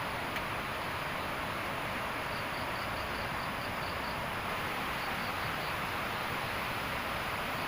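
Steady outdoor night ambience: an even hiss with faint, rapidly pulsing insect chirps coming and going in short runs.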